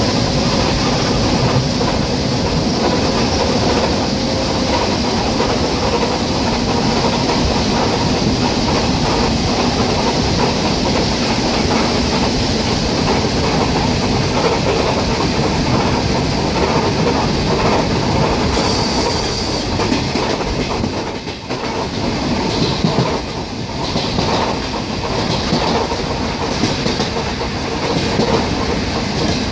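ER9T electric multiple unit running at speed: wheels clattering over the rail joints over a steady rumble. A brief high-pitched tone cuts in about two-thirds of the way through.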